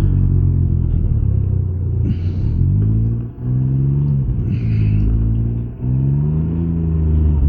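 Can-Am Ryker 900's three-cylinder engine pulling under acceleration, its pitch rising, dropping sharply about three seconds in and again near six seconds, then climbing once more.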